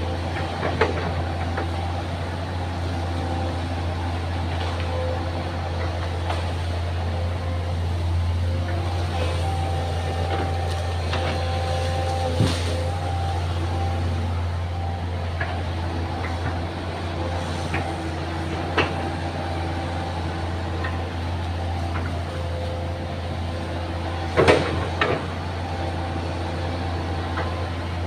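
Excavator's diesel engine running steadily under load, with higher whining tones that come and go as it works. A few sharp knocks are heard, the loudest a quick cluster near the end.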